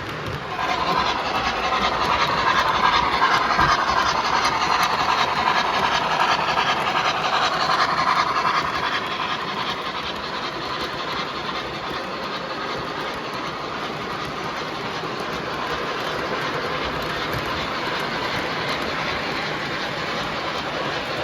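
MTH model trains running around a layout track: a continuous rolling noise of the locomotives and freight cars on the rails. It gets louder under a second in and stays loud until about eight seconds in, then settles steadier and quieter.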